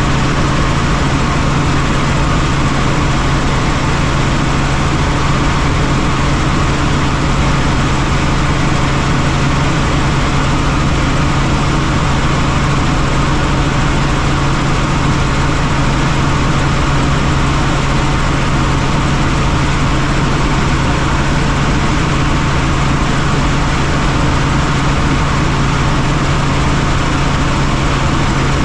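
Helicopter in flight: a steady, loud drone of engine and rotor with a strong low hum, unchanging throughout.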